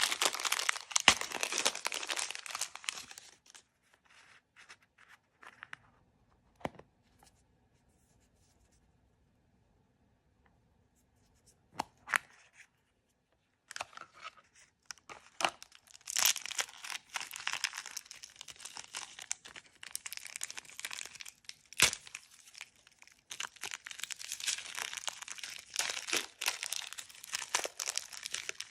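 Blind-bag packaging being torn open and crinkled by hand. There are two spells of dense crinkling and tearing, with a near-quiet pause of several seconds between them that is broken by a few sharp clicks.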